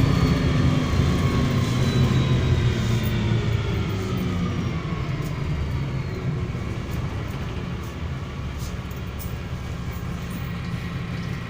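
MAZ-103 city bus heard from inside the cabin, its engine and drivetrain whine falling steadily in pitch and getting quieter as the bus slows over the first six seconds or so, then running low and steady.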